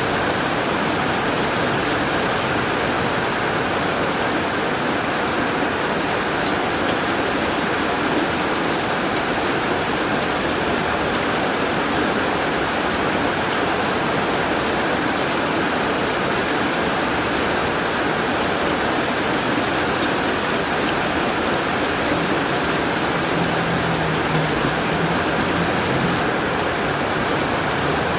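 Steady rain falling on a tin roof: a dense, even patter of drops that keeps a constant level throughout.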